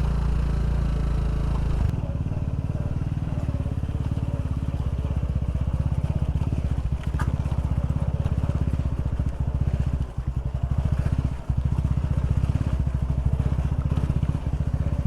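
Single-cylinder 200cc motorcycle engine running while riding, with a fast, even low pulse. The level dips briefly twice, about ten and eleven and a half seconds in.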